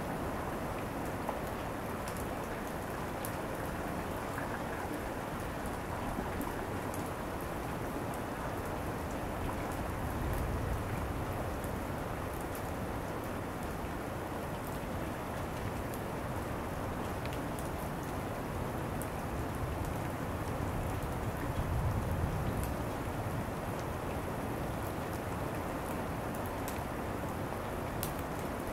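Steady heavy rain falling during a thunderstorm, a constant hiss with scattered drop ticks. A faint low rumble swells briefly about a third of the way through and again past the two-thirds mark.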